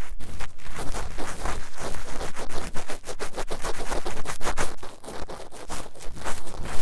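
Fast, rough scratching and scraping right at the ear of a 3Dio binaural microphone during ASMR ear cleaning, in rapid uneven strokes.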